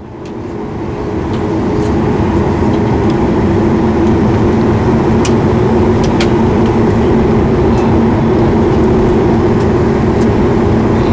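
Cabin noise of a Boeing 737 MAX 8 airliner heard from a forward window seat: a steady hum of its CFM LEAP-1B jet engines and cabin air, rising over the first second or two and then holding level, with a few light clicks.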